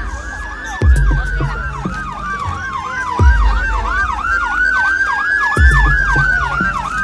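Emergency-vehicle siren sounding a slow rising-and-falling wail and a fast yelp at the same time. A heavy low thump comes three times, about every two and a half seconds.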